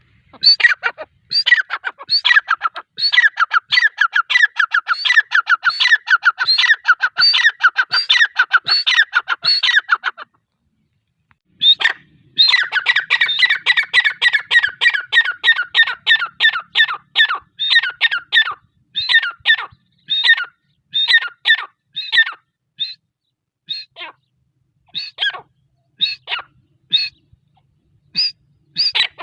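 Grey francolin calling: a fast run of sharp, repeated notes for about ten seconds, a short pause, then a second run that gradually slows into widely spaced single notes.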